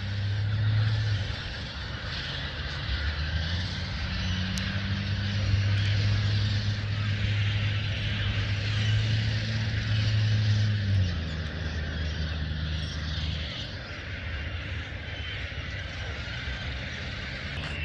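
A large flock of gulls calling in a dense, continuous chatter, under the steady low hum of a vehicle engine that shifts in pitch a few times.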